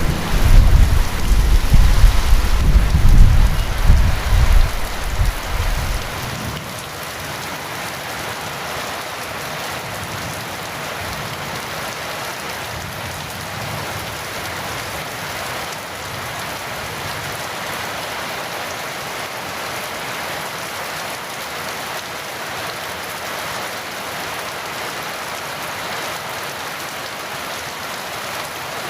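Heavy rain falling steadily. A rolling rumble of thunder at the start dies away about six seconds in, leaving only the steady rain.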